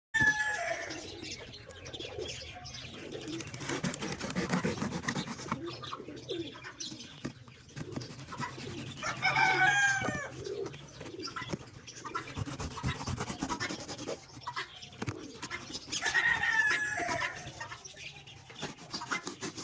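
Birds calling: several pitched calls, the strongest about ten seconds in and another about sixteen seconds in, over a low rustling background.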